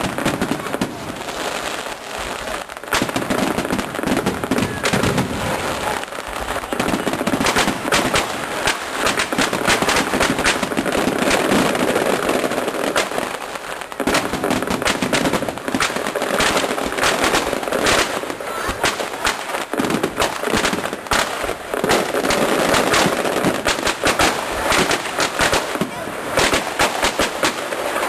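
Fireworks display going off in a dense, continuous barrage of rapid cracks and bangs, the crackling thickest from about a third of the way in.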